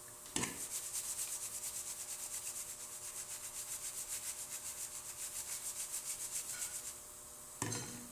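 Quick, even scraping strokes of a kitchen utensil, about five a second, for some six seconds, with a knock just before they start and another knock near the end.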